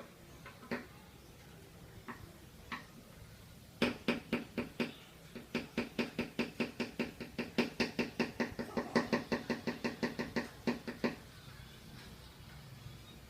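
Lovebird's ngekek: a few single chirps, then a long run of rapid, evenly repeated chattering calls, about five a second, lasting some seven seconds before stopping.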